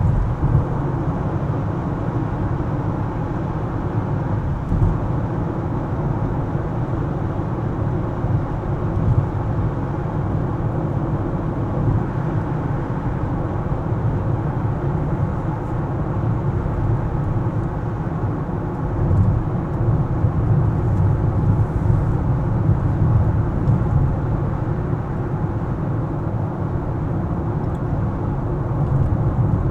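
Car driving in city traffic: a steady low rumble of engine and tyres on the road, with small rises and dips in level but no sharp events.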